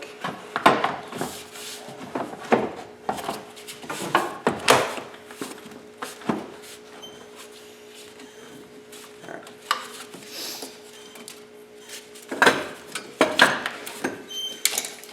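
Fan shroud being set back into a pickup's engine bay: irregular knocks, scrapes and clatter, with a louder run of knocks near the end. A faint steady hum runs underneath for most of it.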